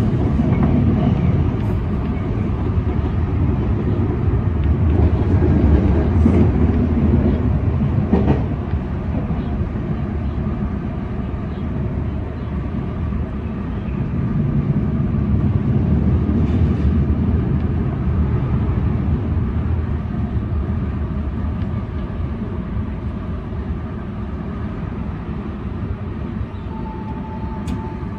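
Semboku Rapid Railway electric commuter train running, heard from inside the front car: a steady rumble of wheels on rail that eases off in the second half as the train runs into a station platform. A short steady high tone sounds near the end.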